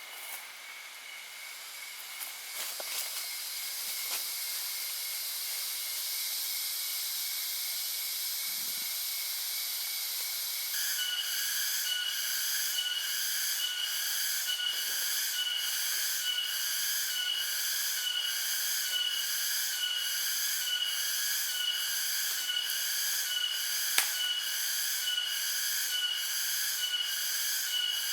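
Forest insects droning in a steady high buzz, joined about eleven seconds in by a louder chorus that pulses evenly, a little over once a second. A single sharp click comes near the end.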